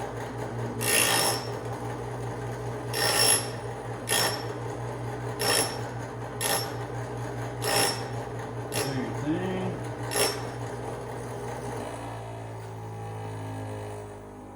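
Old bench grinder running with a steady hum while a drill bit is pressed to the wheel about eight times, each a short grinding rasp, to sharpen its point.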